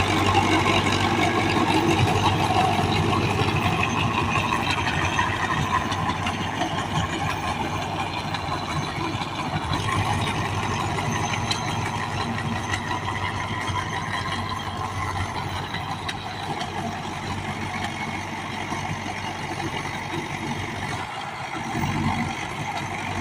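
Diesel tractor engine, an HMT engine fitted into a Sonalika 745, running steadily, growing slightly quieter toward the end.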